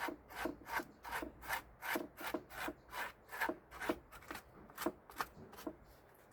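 Back-and-forth hand strokes scrubbing or filing a small car part, about two to three strokes a second, stopping near the end.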